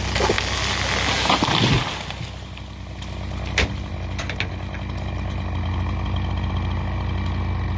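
Timberjack skidder's diesel engine idling steadily. Over the first two seconds there is a loud rush of crashing, crackling noise, and about three and a half seconds in there is a single sharp knock.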